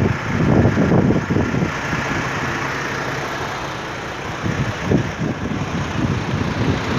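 Heavy truck engine running with road rumble, louder for a moment about a second in and again near five seconds.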